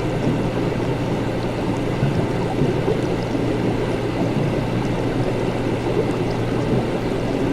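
Steady laboratory ambience: a constant low hum under an even, dense noise bed, with a few faint ticks.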